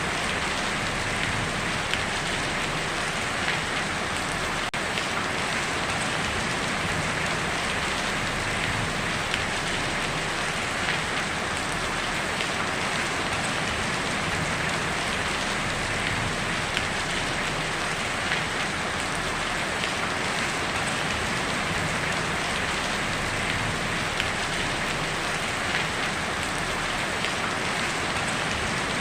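Heavy rain falling steadily on a tin roof, an even hiss with many small drop ticks and no break.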